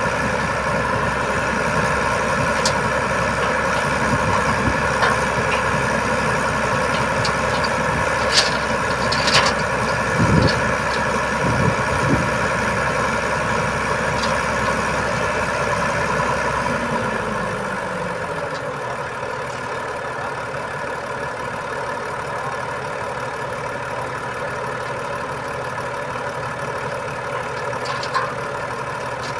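Diesel boom-truck engine running steadily, with a few sharp knocks and clanks. About two-thirds of the way through, a lower drone falls in pitch and dies away, leaving the engine idling more quietly.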